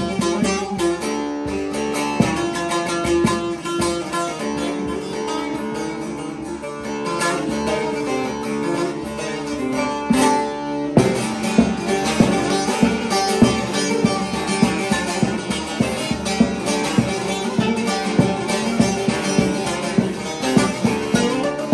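Divan bağlama, a large long-necked Turkish lute with a 48-stave mahogany bowl, played with a plectrum in quick runs of plucked notes. About halfway through the playing turns louder and more rhythmic, with strong repeated strokes.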